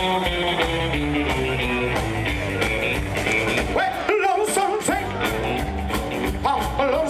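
Live band playing an uptempo rock-and-roll country tune with guitars and drums keeping a steady beat.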